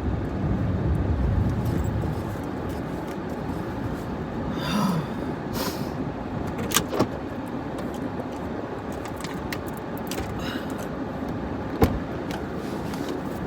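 Steady engine and road noise inside a truck's cabin while driving, with a few sharp clicks; the loudest click comes near the end.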